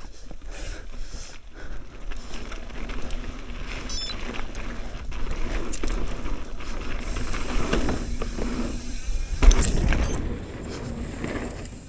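Mountain bike running fast down a dirt trail: tyres on dirt, rattling bike and wind buffeting the camera microphone, with one sharp heavy thump about nine and a half seconds in from the jump.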